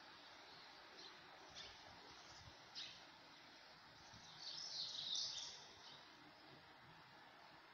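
Faint birds chirping over a steady low hiss: a few short, high chirps, then a louder flurry of calls about halfway through.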